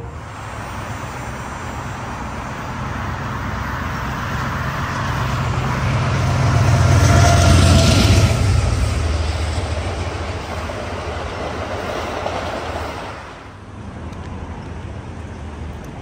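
A train passing by: a low rumble with rushing noise that builds to its loudest about halfway through, then fades away.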